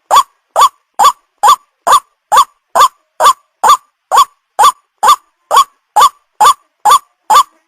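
White-breasted waterhen call: a short, upward-sweeping note repeated loudly and evenly, about two notes a second.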